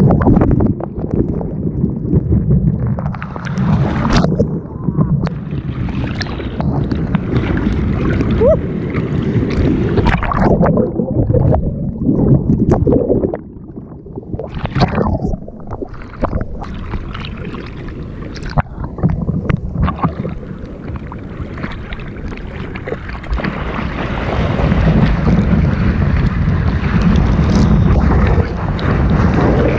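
Sea water sloshing and splashing around a board-mounted action camera, with wind buffeting the microphone. The rushing comes and goes irregularly, easing off about halfway through and building again near the end.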